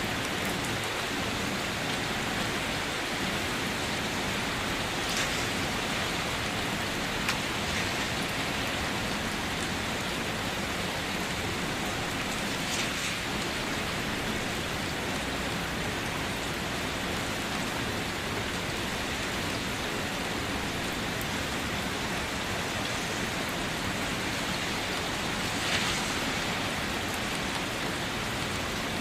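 Steady rain falling on a car's body and windows, heard from inside the car, with a few louder single drops tapping a handful of times.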